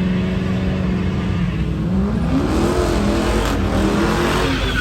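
Car engine revving: it holds at steady revs for about two seconds, then the revs climb and keep varying.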